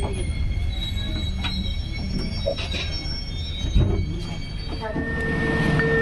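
Passenger train running on the rails: a low rumble with high, steady wheel squeal and a few scattered clicks. About five seconds in, a held tone comes in over it.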